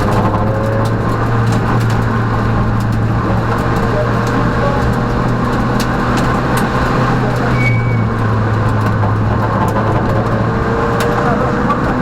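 Peugeot rally car's engine heard from inside the cabin, running at a fairly steady pitch under way, with road noise and scattered sharp ticks; the pitch rises slightly near the end.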